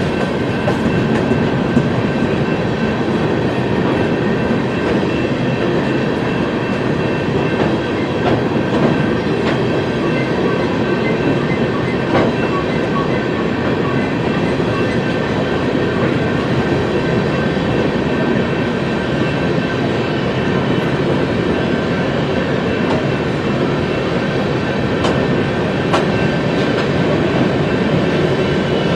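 BNSF coal train's hopper cars rolling past at a steady speed: continuous wheel-on-rail noise, with a faint high steady whine over it.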